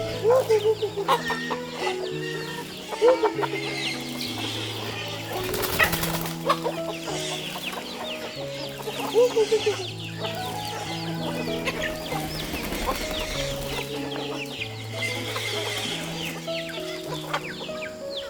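Chickens clucking, with loud bursts of clucks about three seconds in and again near nine seconds, over steady background music.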